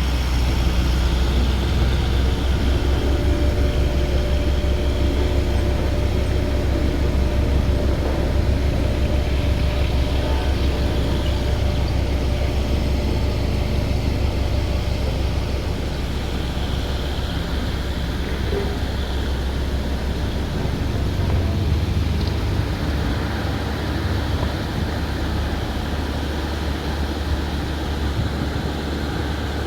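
A waterfall rushing steadily, a continuous noisy roar with a heavy low rumble underneath.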